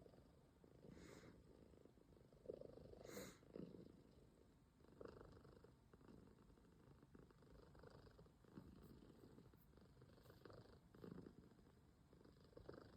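Calico cat purring steadily and softly, the purr swelling and easing with each breath. Two brief soft noises come about one and three seconds in.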